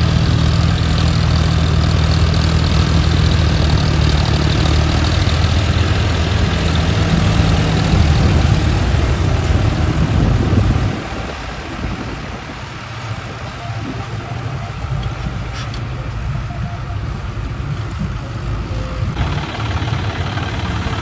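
Tractor diesel engines running steadily, loud for the first eleven seconds or so, then dropping noticeably quieter.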